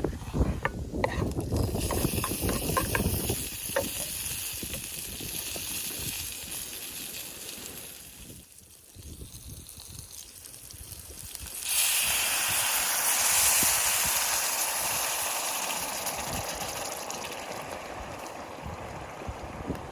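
Sea waves washing up on a beach: a sudden surge of hissing surf about two-thirds of the way through, slowly fading as the water draws back, with wind rumbling on the microphone at the start.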